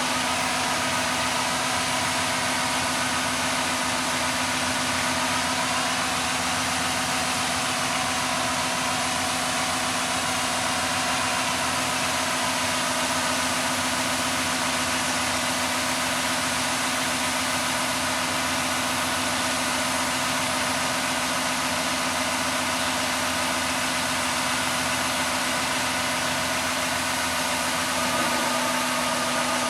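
John Deere S680 combine running steadily while harvesting corn: a constant engine drone with a steady hum and a few higher tones over an even hiss.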